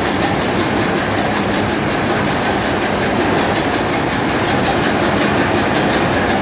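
Machinery running in a bulk carrier's engine room: a loud, steady din with a fast, even pulsing of several beats a second.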